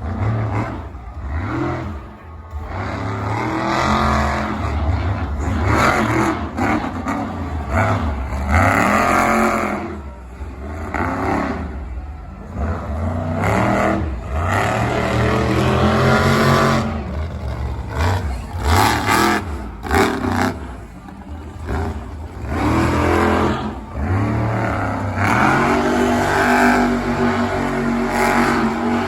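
A monster truck engine revving hard again and again, its pitch climbing and dropping every few seconds, with several sharp bangs among the revs.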